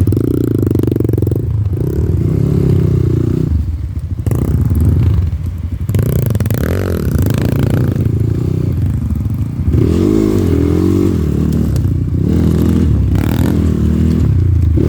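Off-road motorcycle engine revving up and down as the bike is ridden over rough forest ground, the revs rising and falling repeatedly.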